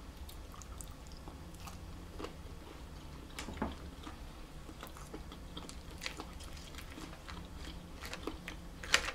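Close-miked eating sounds: shrimp being chewed, with scattered small wet clicks and crackles over a steady low hum, and a quicker run of louder clicks near the end.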